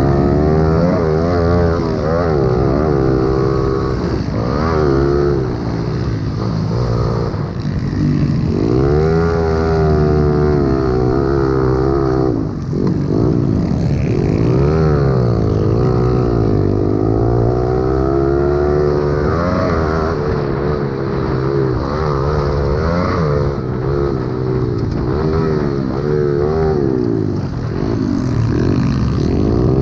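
Several pit bikes' small four-stroke engines racing together, each revving up and dropping back in pitch as the riders work the throttle and shift, their sounds overlapping continuously.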